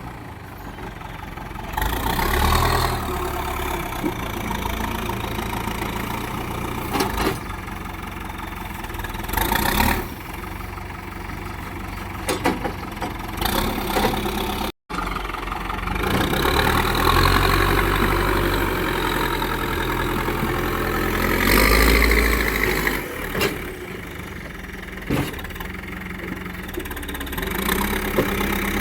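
Diesel engines of a backhoe loader and tractors running, revving up several times, with occasional sharp knocks and clanks. The sound cuts out briefly about halfway through.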